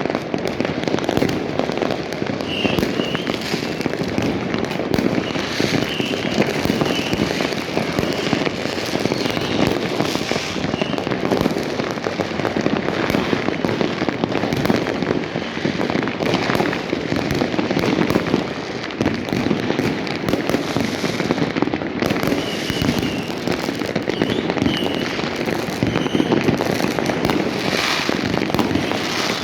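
Many fireworks and firecrackers going off at once: a dense, continuous crackle of overlapping bangs with no pause.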